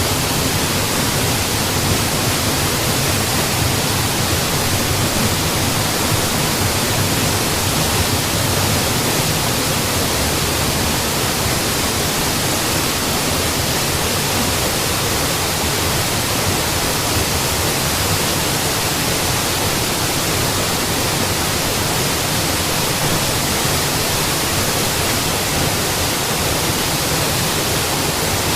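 Mountain waterfall: water falling and splashing in a steady, even rush with no changes.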